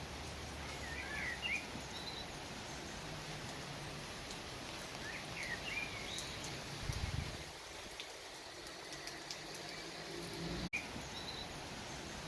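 Outdoor nature ambience: a steady background hiss with a few short bird chirps, in two brief bursts about a second in and about five and a half seconds in. The sound cuts out for an instant near the end.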